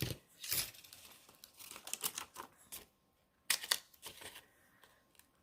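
Crinkling and peeling as foam adhesive dimensionals are pulled off their backing sheet and pressed onto cardstock, in short scattered rustles and clicks.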